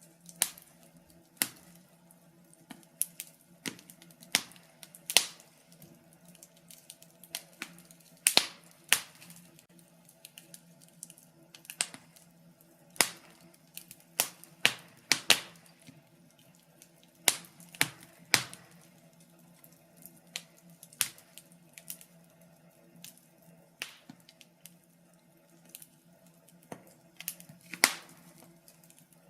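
Wood fire in a fireplace crackling, with irregular sharp pops from the burning wood, some much louder than others, over a faint steady low hum.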